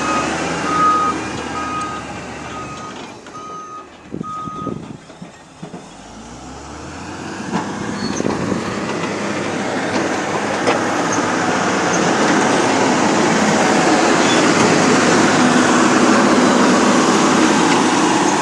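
Heavy construction vehicle reversing, its backup alarm beeping steadily about once every 0.7 s for the first few seconds, then stopping; after a quieter spell its engine and the rumble of the machine build up loud and even toward the end.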